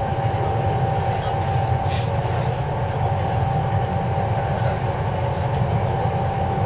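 Cabin noise aboard a JR East 253-series electric limited-express train under way: a steady low rumble of wheels on track, with a steady whine above it.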